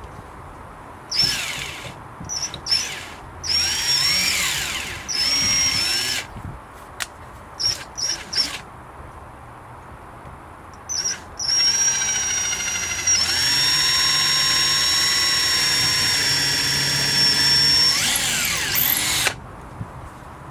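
Power drill run in several short bursts and blips, then held in one long steady run of about eight seconds, its whine sliding down in pitch as it winds down near the end.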